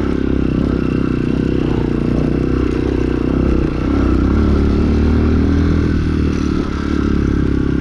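Engine of a Chinese 250 cc dirt bike running under way on a muddy trail, a steady engine note with short dips about halfway through and near the end.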